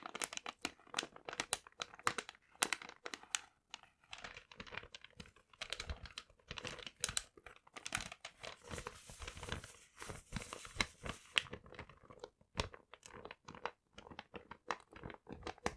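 Paper being crumpled and crinkled close to the microphone: irregular crackles and rustles, thickening into a denser rustle about halfway through.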